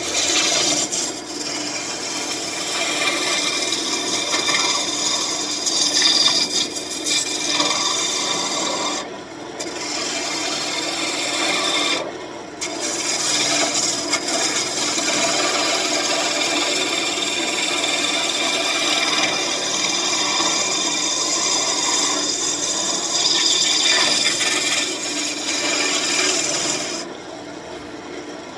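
Wood-turning gouge cutting a spinning birch branch on a wood lathe: a continuous rough scraping and shaving noise. It breaks off briefly twice and stops near the end as the tool is lifted from the wood.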